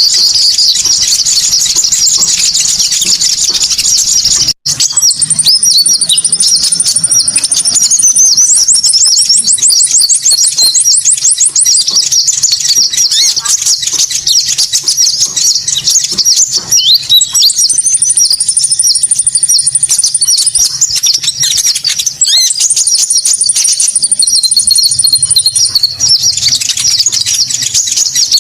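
Loud, dense high-pitched chirping and squeaky calls of small birds from a konin bird-lure recording, with a thin high whistle note that comes and goes and a fast even trill about nine seconds in. The sound cuts out for an instant about four and a half seconds in, like a loop splice.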